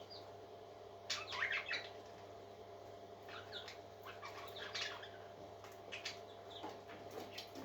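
Parrot chicks giving short, high squeaky peeps in irregular clusters, loudest about a second in, over a steady low hum.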